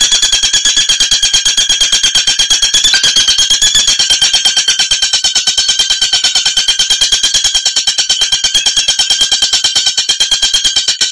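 Oriental magpie-robin (kacer) giving a sustained, rapid rattling trill at a steady pitch, over a dozen notes a second, like a ringing alarm.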